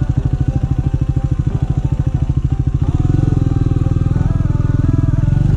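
150 cc motorcycle engine running with a rapid, even pulsing, growing louder about three seconds in as the throttle opens. Background music plays over it.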